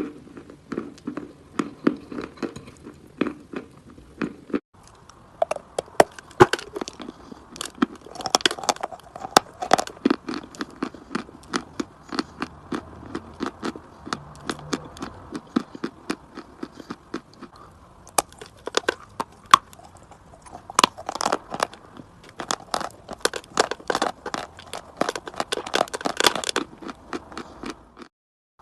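Chalk being bitten and chewed close to the microphone: a dense run of crisp cracks and crunches, cut into separate clips with brief breaks between them.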